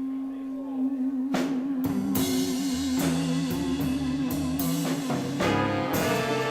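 Swing band playing the closing bars of a slow blues ballad: a long held note with vibrato over drum and cymbal strikes and stepping bass notes, with a sustained horn chord coming in near the end.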